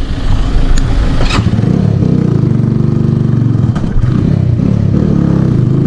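Motorcycle engine running while riding, its pitch swelling up and falling back. A few sharp clicks sound in the first second and a half, and another near the end.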